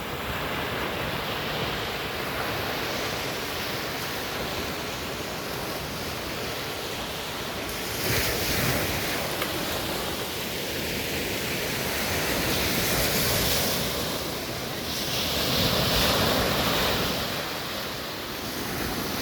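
Ocean surf washing onto a beach: a continuous rush of water noise that swells louder as waves break about eight, thirteen and sixteen seconds in.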